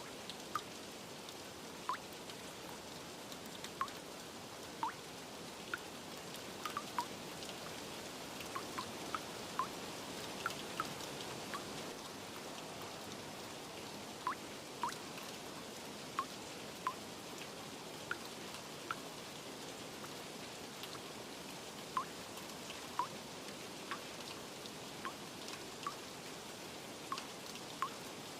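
Steady rain falling, with single drops plinking irregularly about once a second.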